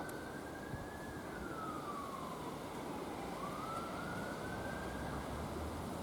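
Faint emergency-vehicle siren sounding a slow wail: the pitch rises, falls away about two and a half seconds in, then rises again and holds.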